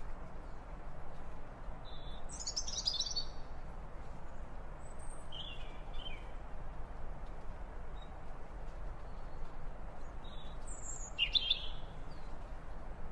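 Birds calling in short, scattered chirps over a steady hiss of outdoor background noise. The loudest calls come about two seconds in and near the end, where one call sweeps quickly downward.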